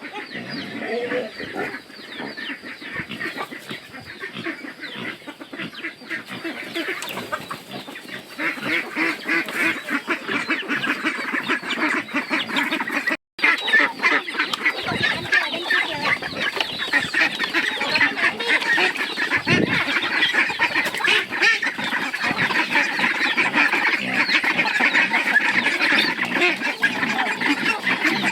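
A flock of farm poultry calling, many overlapping honks and clucks in a continuous chatter that grows louder about a third of the way in and cuts out for a moment near the middle before going on.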